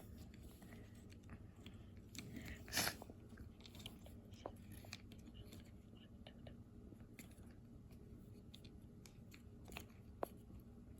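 Faint scattered clicks and rustles of small plastic kit parts and a rubber band being handled, with one louder scrape about three seconds in.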